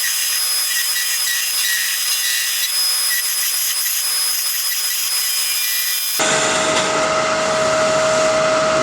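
A turning tool cutting a spinning poplar spindle blank on a wood lathe, a steady high hiss of shaving wood as it is brought down to size. About six seconds in it changes abruptly to the lathe running without cutting, a steady hum with a whine.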